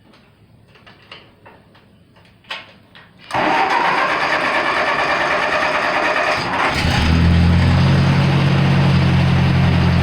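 Ford 4000 heavy-duty industrial tractor's engine cold-started after winter storage: a few faint clicks, then the starter cranks it for about three seconds before it catches and settles into a steady, even idle.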